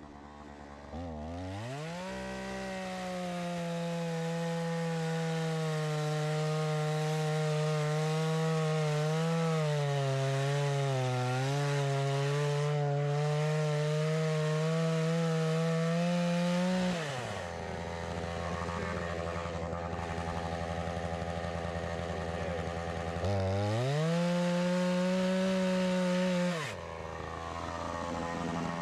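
Chainsaw run at full throttle cutting through a fallen tree, its pitch sagging a little as the chain bites into the wood, then dropping to idle after about fifteen seconds. It is revved up again for about three seconds near the end before settling back to idle.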